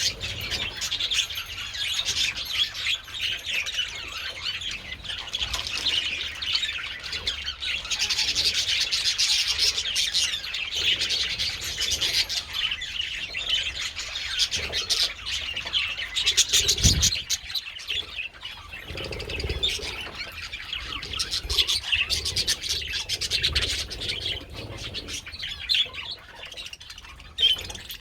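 A flock of budgies chattering continuously, a dense mix of warbles, chirps and squawks. A low thud comes about two-thirds of the way in.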